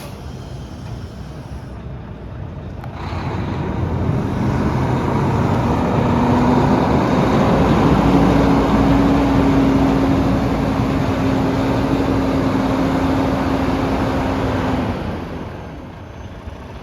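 Volvo VNL semi tractor's diesel engine idling, then brought up to a higher speed about three seconds in and held there with a steady pitched tone over the engine noise, before dropping back to idle near the end.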